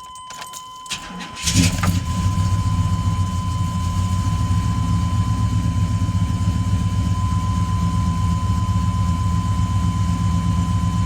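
1998 Chevy Silverado Z71 engine cold-started: a short crank, then it catches about a second and a half in with a brief flare in revs and settles into a steady idle.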